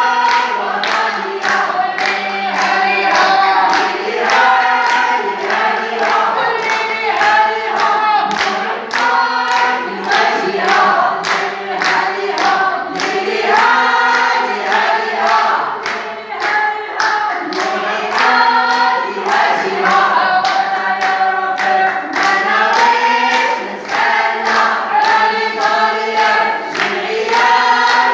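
A crowd of protesters chanting slogans in unison to a sung, rhythmic melody, with regular sharp strokes that may be hand claps.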